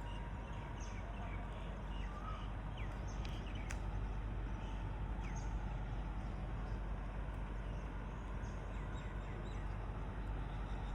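Outdoor ambience: a steady background hiss and low rumble, with scattered short bird chirps and quick whistled notes throughout.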